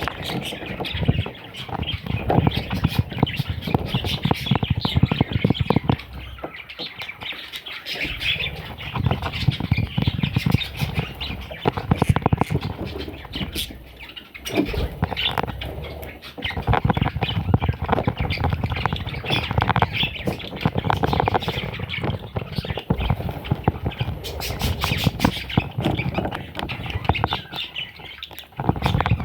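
Budgerigar chicks squawking and chirping, continuous and raspy, with many small clicks and scratches mixed in.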